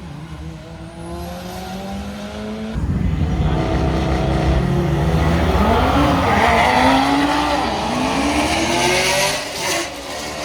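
Car engine revving hard with a wavering pitch, with tires squealing; it gets louder about three seconds in.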